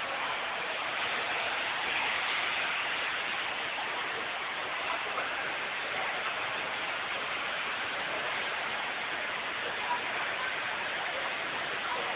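Rain falling as a steady hiss, with a couple of faint knocks.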